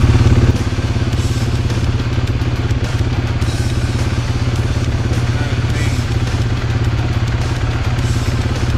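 Small off-road vehicle's engine running steadily under way with a fast, even beat. It eases off slightly about half a second in.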